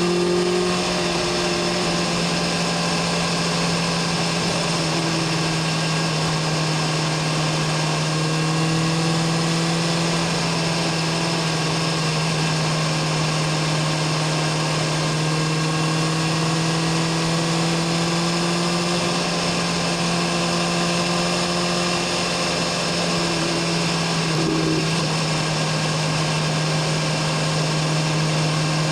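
BMW S1000RR's inline-four engine and exhaust running at a steady cruise, the engine note holding an almost constant pitch with only slight rises and dips.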